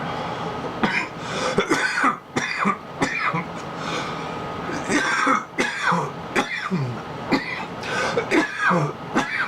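A man coughing and clearing his throat in repeated fits.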